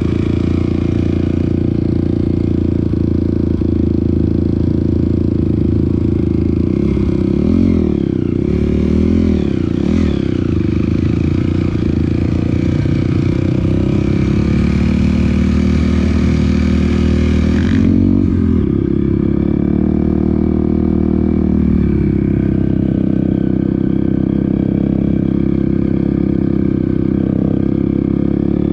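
Off-road motorcycle engine running continuously on a trail ride, with the revs rising and falling a few times about a third of the way in and again past the middle.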